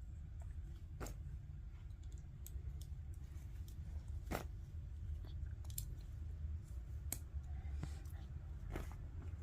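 Plastic Lego bricks being handled and snapped together, with scattered sharp clicks; the loudest comes about four and a half seconds in. A steady low hum runs underneath.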